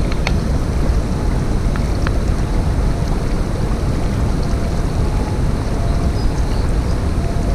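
Steady rushing of a mountain stream, with a few faint clicks.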